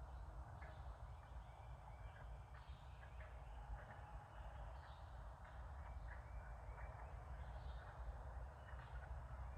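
Faint wildlife ambience: scattered short bird chirps and calls over a steady low rumble.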